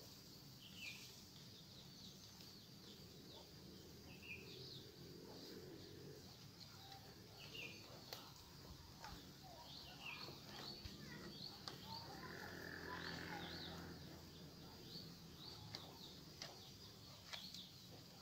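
Faint birdsong: scattered short, falling chirps over a steady thin high insect whine, with faint rustling now and then.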